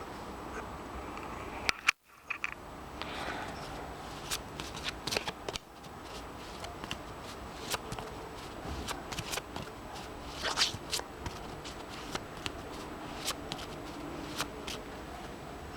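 A deck of Lenormand cards being shuffled and handled, a run of soft, irregular card slaps and flicks. There is a brief dropout about two seconds in.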